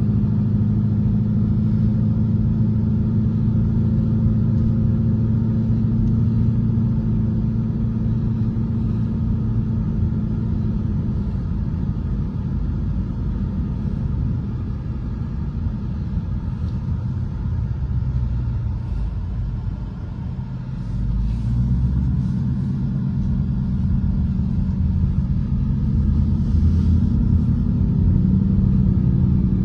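Ford Mustang's engine droning at a steady cruise, heard from inside the cabin with road noise. About two-thirds of the way through the drone eases off, then it picks up and builds again.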